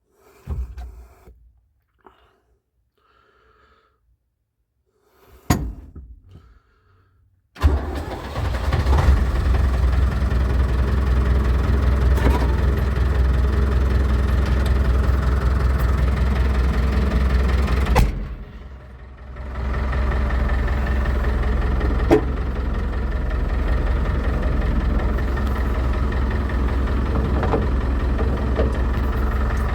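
David Brown 1490 tractor's four-cylinder diesel engine cranking and catching about seven seconds in, then running steadily. It dips away briefly after a sharp click near two-thirds of the way through and picks up again.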